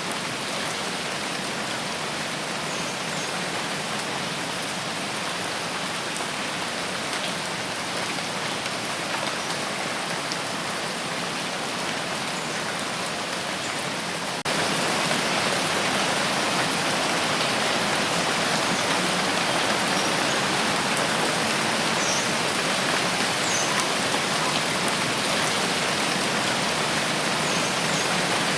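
Steady rain falling, an even hiss of drops with a few faint drip ticks. About halfway through it steps up suddenly to louder, brighter rain.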